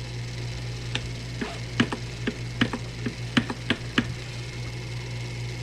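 Electric motor of a Framon key-code cutting machine running on a test run with a steady hum. About a dozen irregular sharp clicks sound between one and four seconds in.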